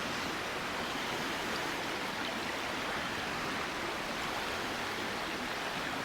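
Flowing river running steadily, a constant rushing of water.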